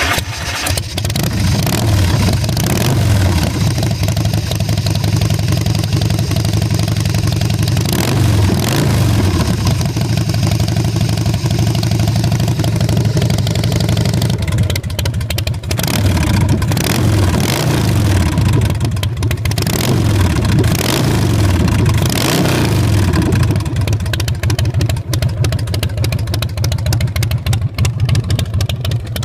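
Carbureted 117 cubic inch S&S V-twin of a 2005 Big Dog Pitbull chopper running loud through its custom exhaust, idling between several blips of the throttle that rev it up and let it fall back.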